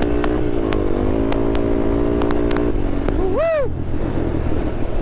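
Honda TRX sport quad's engine running steadily under throttle, with several sharp clicks. The engine note drops away about two and a half seconds in as the throttle comes off, and a short voice call follows about a second later.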